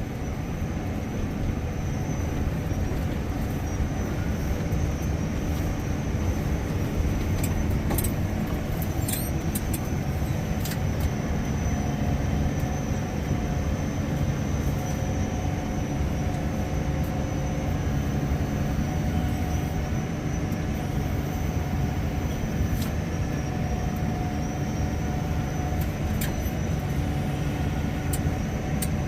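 Loader tractor engine running steadily with a low hum. A few light clicks are heard over it.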